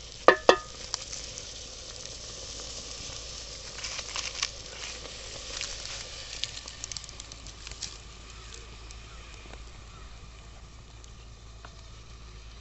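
A cooking fire hissing steadily with scattered small crackles under a pot of chicken stock as it boils. Two sharp clicks come just at the start.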